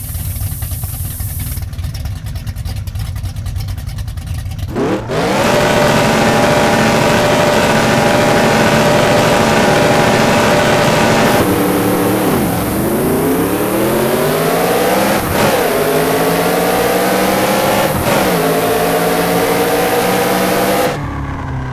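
Old Dodge Dart race car engine, loud: a low rumble, then about five seconds in it revs up sharply and holds high revs. After about eleven seconds the pitch drops and climbs again three times, like upshifts through the gears under hard acceleration.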